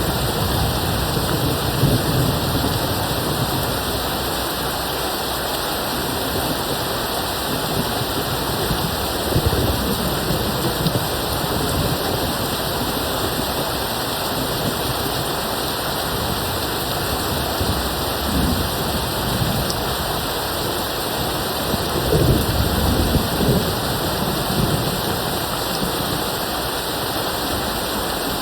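Steady rain falling with distant thunder rumbling several times; the strongest roll of thunder comes about two-thirds of the way in.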